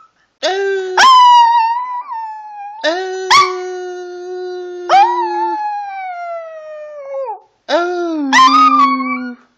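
Chihuahua howling like a wolf in three long, drawn-out howls, each sliding down in pitch at its end.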